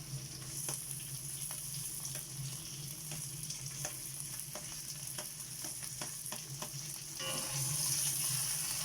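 Chopped tomatoes sizzling in hot oil with sautéed garlic and onion, stirred with a spatula that clicks and scrapes against the pan. A kitchen exhaust fan hums steadily underneath. The sizzle grows louder about seven seconds in.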